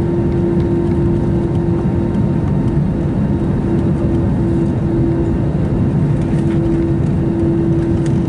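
Steady jet engine and airflow noise heard inside an Airbus A321 cabin, a loud even rush with a constant hum, holding level without rising or falling.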